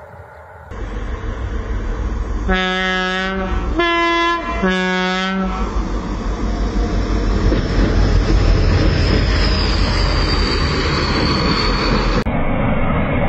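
Diesel locomotive hauling a heritage passenger train sounds its two-tone horn in three short blasts, the middle one at a different pitch. Then the train's rumble builds as the locomotive and its coaches pass close by, with the clatter of wheels on the rails.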